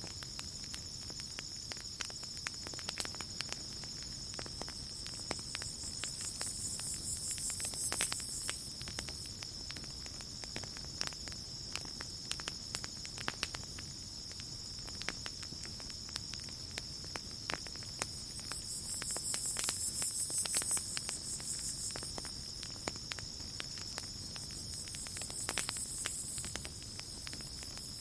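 Campfire crackling with scattered sharp pops over a steady high chirring of crickets. Three times a brief, higher hiss swells up and fades away, about six, nineteen and twenty-five seconds in.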